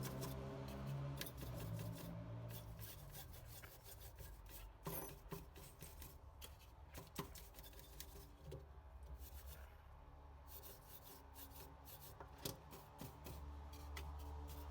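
Faint, irregular scrubbing and scratching strokes on an electronic circuit board as it is washed clean with a solvent.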